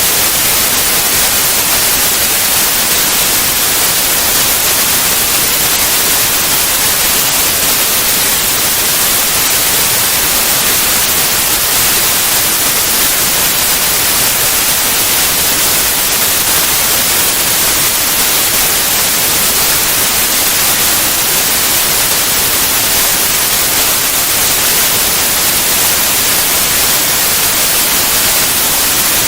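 Steady white noise: an even, unchanging hiss across all frequencies, brightest in the treble.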